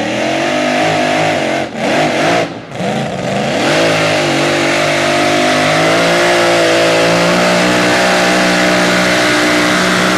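Super modified four-wheel-drive pulling truck's engine at high revs under load during a pull. The sound drops out briefly twice near two seconds in, then holds a loud, steady note that climbs slightly.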